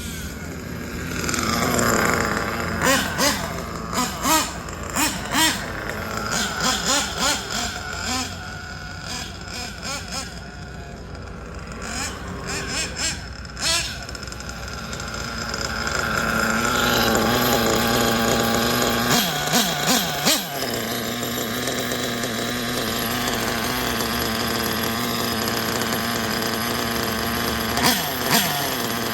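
Nitro glow engine of a Kyosho Inferno NEO ST 3.0 RC car running, revved up and down in many short bursts, then running more steadily and a little louder through the second half.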